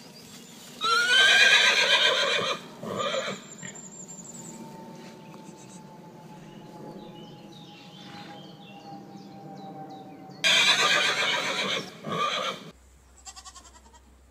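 A farm animal calling loudly twice, about ten seconds apart. Each long call is followed by a short second one, over a steady low hum.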